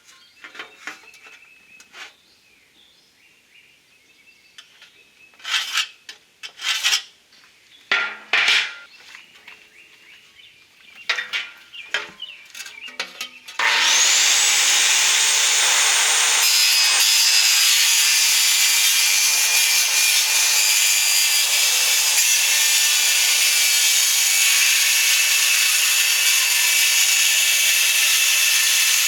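Scattered clanks and scrapes of metal being handled, then a power cutting tool spins up with a rising whine about halfway through and cuts steadily and loudly through thin aluminum sheet.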